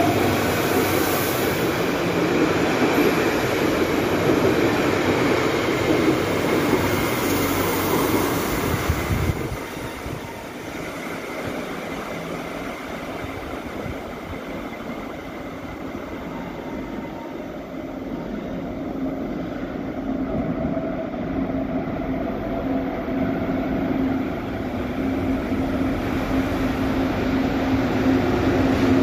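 Electric commuter train rumbling along the track past an underground platform, its sound cutting off suddenly about nine seconds in. A quieter spell follows, then an approaching locomotive-hauled train grows steadily louder with a low steady hum near the end.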